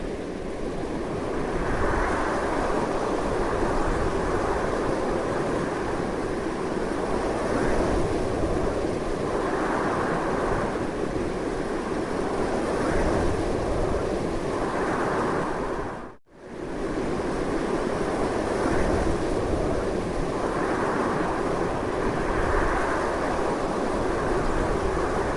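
Strong wind blowing continuously, swelling and easing in gusts every few seconds. The sound drops out for a moment about two-thirds of the way through, then comes back at the same strength.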